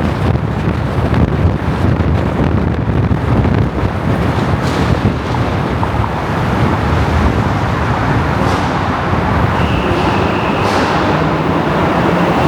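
A car on the move: steady engine, tyre and wind noise.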